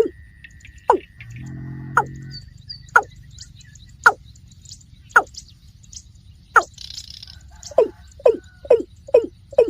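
A rail calling over and over with short, falling notes: about two a second at first, slowing to about one a second, then quickening again near the end. A brief low hum sounds about a second in.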